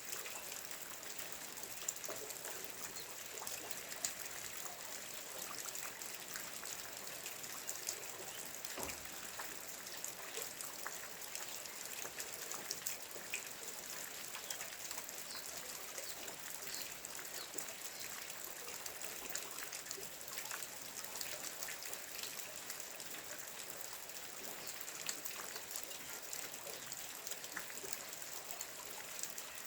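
Steady rain falling, with many separate drops heard as small ticks over an even hiss.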